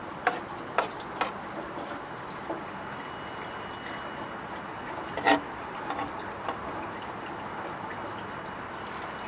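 Steady buzz of a crowded colony of honeybees in an opened top bar hive, with a few sharp knocks: two or three in the first second or so and a louder one about five seconds in.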